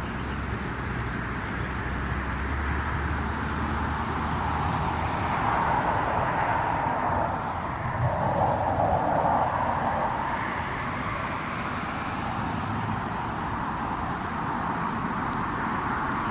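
A vehicle passing by, its noise swelling to a peak about halfway through and then fading, over the low sound of a campfire with a few faint crackles near the end.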